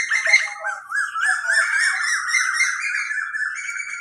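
Small birds twittering: a fast, nearly unbroken run of repeated chirps.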